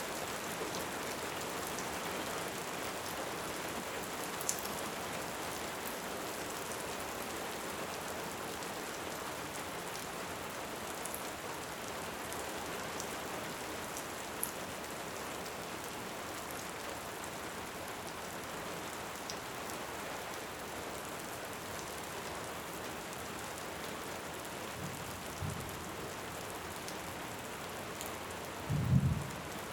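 Steady rain with occasional sharp crackles from a wood fire, and a short low rumble of distant thunder near the end.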